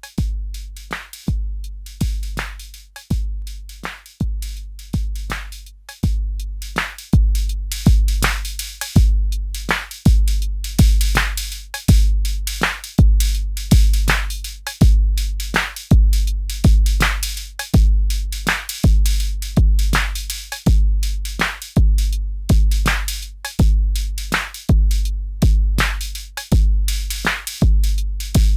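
Arturia DrumBrute Impact analog drum machine playing a beat. A deep kick drum with a long decay falls about once a second, with short, bright hits between the kicks.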